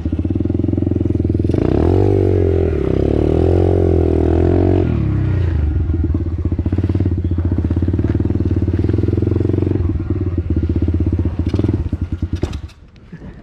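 Pit bike engine running, revved up and down several times from about two seconds in, then settling back to a steady idle; the sound falls away near the end.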